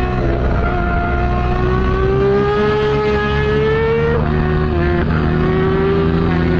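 Motorcycle engine pulling under load, its pitch rising slowly, dropping abruptly at a gear change about four seconds in, then rising again.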